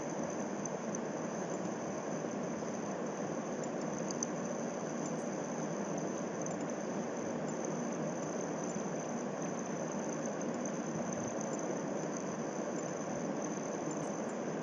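Steady background hiss with a faint, constant high-pitched whine, and a few faint ticks scattered through it.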